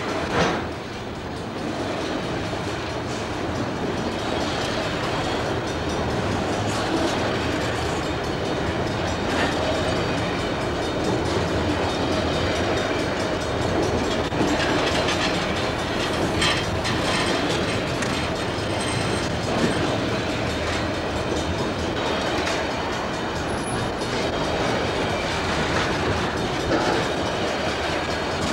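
Cars of a Santa Fe piggyback (trailer-on-flatcar) freight train rolling past close by: a steady rumble of steel wheels on rail with occasional wheel clicks.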